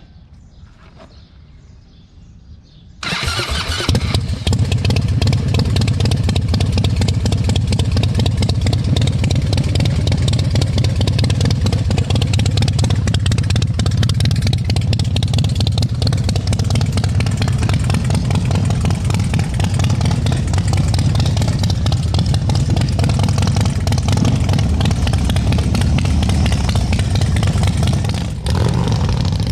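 2010 Harley-Davidson Softail's Twin Cam V-twin through an aftermarket performance exhaust, firing up suddenly about three seconds in and then running loud and steady, with a brief dip in level near the end.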